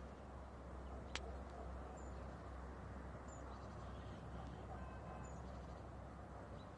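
Outdoor ambience: a steady low noise with a few faint, high, short bird chirps, and a single sharp click about a second in.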